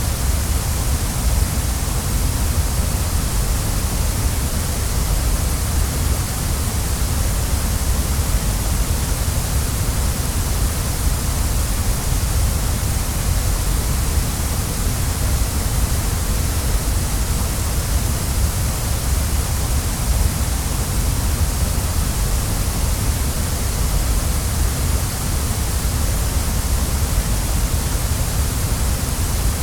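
Waterfall: the steady rush of falling water, a deep rumble under a bright hiss, unchanging.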